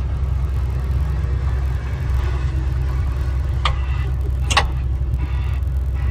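Heavy vehicle's engine running with a steady low rumble, with two sharp clicks a little under a second apart in the middle.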